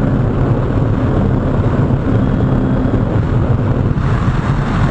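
Kawasaki Ninja 650's parallel-twin engine running steadily at highway cruising speed, with heavy wind rushing over the microphone.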